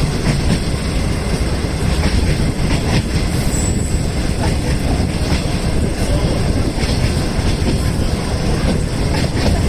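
Passenger train running along the track: a steady rumble of wheels on rail, with scattered clicks as the wheels pass over rail joints.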